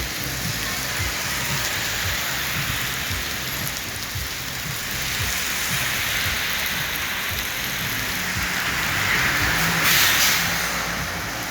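Heavy rain falling and splashing on the street, a steady hiss that swells to a louder rush about ten seconds in.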